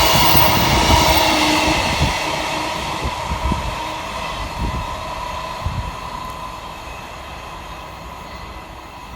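A train moving away, its running noise fading steadily, with a steady whine and a few low knocks from the wheels.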